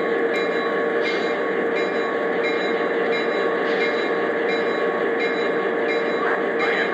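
Lionel O gauge Santa Fe E8 diesel locomotives running along three-rail track: a steady rolling noise from the wheels with a steady motor hum.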